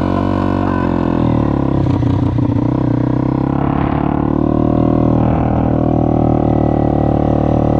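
Honda CBR250R's single-cylinder engine running at a steady speed through a cheap shorty GP exhaust that is basically a straight pipe, giving a loud, steady drone.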